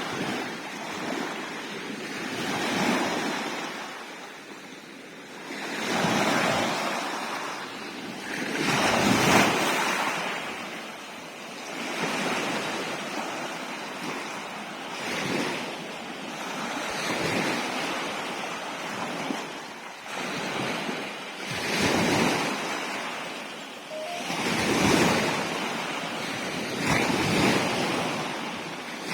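Sea waves surging and washing in, one swell every two to three seconds, the loudest about nine seconds in.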